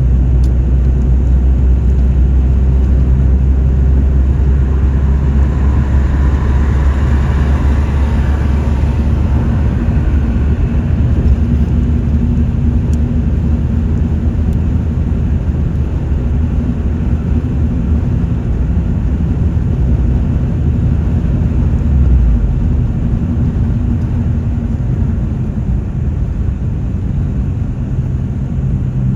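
A car driving, with a steady low engine and road rumble. A brief rushing sound swells and fades about six to nine seconds in.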